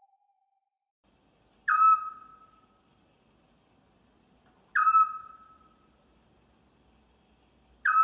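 An owl calling three times, about three seconds apart. Each call is a single short whistled hoot that drops slightly in pitch at the start and trails off with an echo-like fade.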